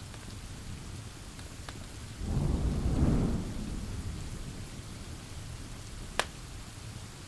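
Steady rain with a low rumble of thunder that swells about two seconds in and dies away over the next second or so; a single sharp pop from a wood fire near the end.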